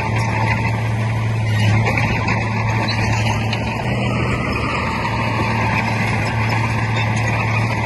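Heavy diesel engine of earthmoving machinery running steadily under load, with a constant low hum.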